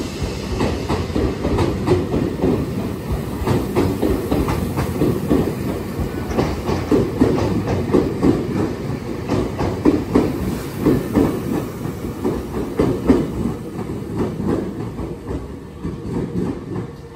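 Nankai 8300 series electric train departing past the platform, its wheels clacking over rail joints in repeated, uneven runs. It fades over the last few seconds as the rear cars pass and the train pulls away.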